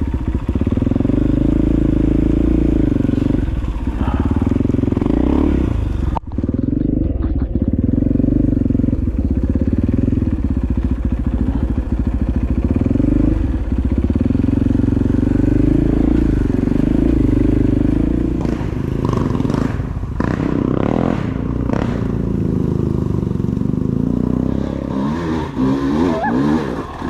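KTM dirt bike engine running hard while riding, its pitch rising and falling with the throttle and gear changes. About six seconds in the engine note cuts out briefly, and past the middle there are short noisy bursts over it.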